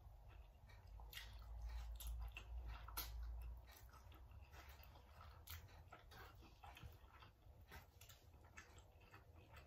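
Faint close-up chewing of spicy instant noodles eaten with chopsticks: soft wet mouth sounds and scattered small clicks. A low rumble runs from about a second in until about a third of the way through.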